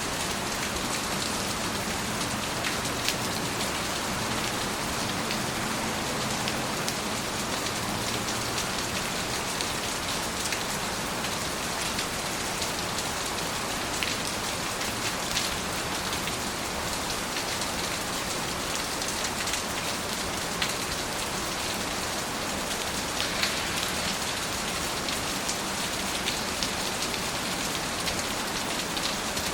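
Steady rain falling, a constant hiss with scattered louder individual drops striking a surface.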